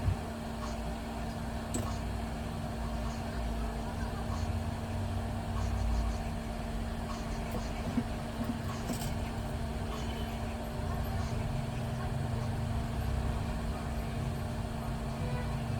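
Steady low rumble with a constant hum and a few faint clicks.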